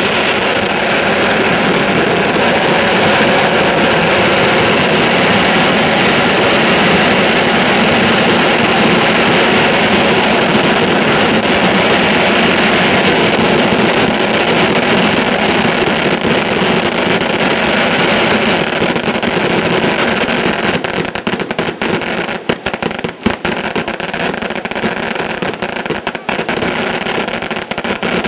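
Fireworks display: a dense, continuous barrage of bangs and crackling that merges into a steady roar, then breaks up with short gaps between bursts over the last several seconds.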